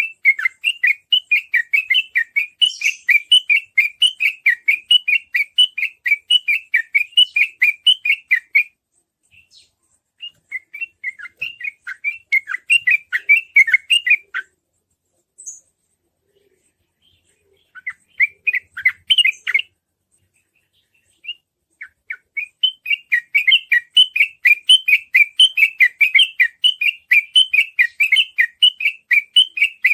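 Yellow-vented bulbul (trucukan) singing fast, chattering runs of notes, about three a second: the rapid continuous 'ropel' song that bird keepers use as a lure. The song breaks into short bursts with pauses in the middle and runs on again from about 21 s in.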